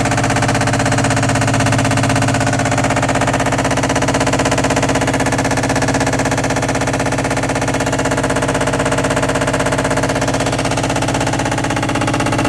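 All-in-one washer dryer combo in its spin cycle, making a very loud, steady, rapid rattling over a low hum.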